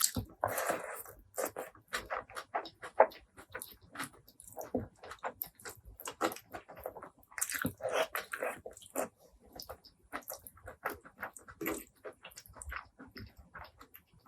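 Close-miked chewing and wet mouth sounds of a person eating: quick smacks and clicks, several a second, with a louder smack about three seconds in.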